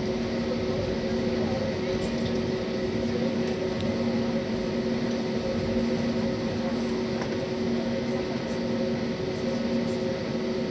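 Steady cabin noise inside an Airbus A320: an even rushing of air with several steady hum tones from the engines and ventilation, holding at one level throughout.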